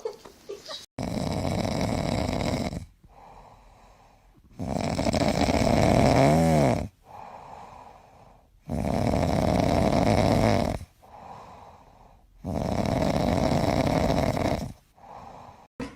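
A dog snoring: four long, loud snores about every four seconds, with faint breaths between them.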